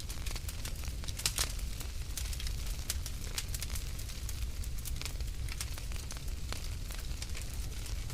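Wood fire burning in a fireplace: a low rumble of the flames under irregular sharp crackles and pops, a few louder pops about a second and a half in.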